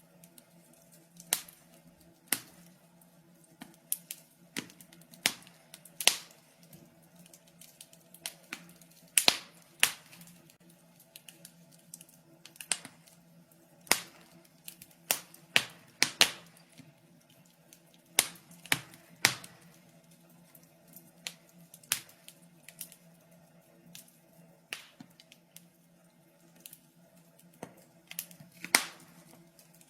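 Wood fire crackling in a fireplace: irregular sharp pops and snaps, one or two loud ones a second with smaller ticks between, over a faint steady hum.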